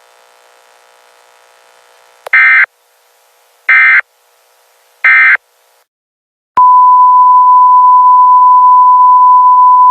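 Emergency Alert System end-of-message signal: three short, loud digital data bursts, each well under half a second and spaced about a second and a half apart. About six and a half seconds in, a loud, steady single-pitch tone starts and holds, like a broadcast off-air tone as the station goes off the air.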